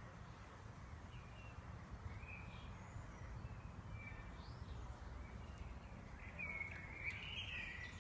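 Faint outdoor ambience: a steady low rumble with scattered short bird chirps, and a longer run of bird song near the end.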